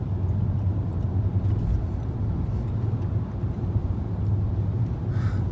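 Steady low drone of engine and road noise inside a 2007 BMW 328i's cabin while it drives along at an even pace.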